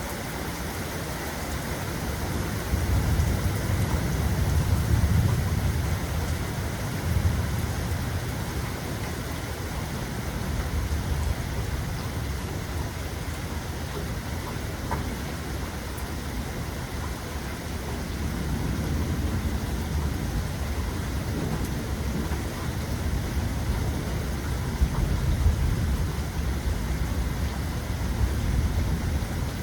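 Steady rain falling, with low rolling thunder that swells and fades several times; the loudest rumble comes a few seconds in.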